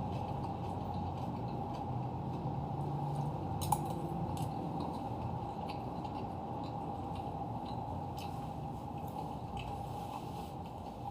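Close-up eating sounds: chewing with scattered short clicks of cutlery against a plate or bowl, the sharpest about four seconds in, over a steady low hum.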